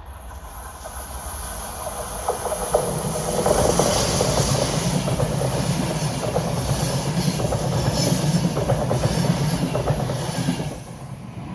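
A train passing by, growing louder as it approaches, then running past with a steady hum and a rapid clatter of wheels on the track. The sound drops off sharply near the end as it clears.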